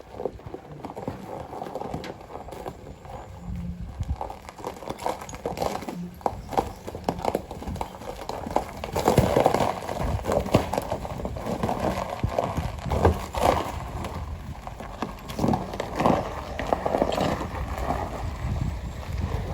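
Pickup truck's tyres breaking through frozen creek ice, with many irregular sharp cracks and crunching knocks over a rough noise. The cracking grows heavier about halfway through.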